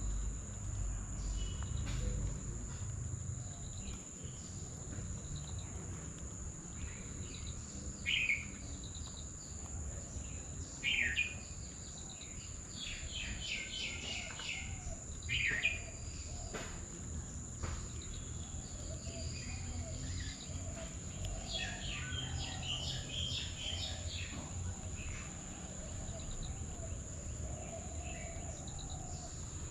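Small birds chirping in short scattered bursts, busiest around the middle and again later on, over a steady high-pitched insect drone and a low rumble.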